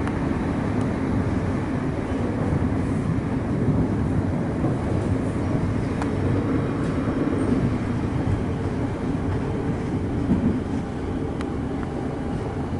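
Electric suburban train running along the track, heard from inside the passenger carriage: a steady rumble of wheels on rail, with an occasional faint click.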